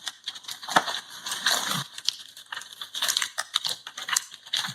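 Irregular crackling and popping of a wooden house burning as lava engulfs it: many sharp, uneven clicks.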